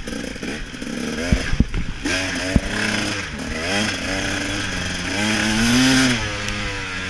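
KTM 300 XC-W two-stroke dirt bike engine revving up and down as the throttle is worked on the track, loudest about six seconds in. A few sharp knocks sound in the first couple of seconds.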